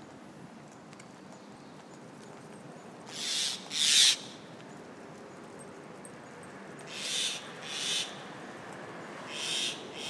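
Birds giving harsh alarm calls in pairs, three pairs a few seconds apart, the loudest about four seconds in: parent birds mobbing a dog near their nest.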